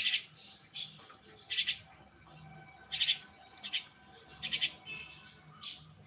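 A bird chirping: short, high chirps, some single and some in quick doubles, about one a second, the loudest right at the start.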